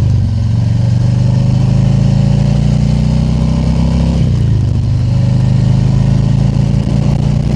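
Harley-Davidson Tri Glide Ultra's V-twin engine running steadily under way, its note stepping down about four seconds in.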